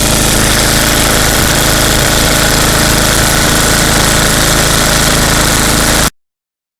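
Eight-horsepower Tecumseh HM80 single-cylinder engine of a 1988 Ariens ST828 snowblower running steadily. The sound cuts off abruptly about six seconds in.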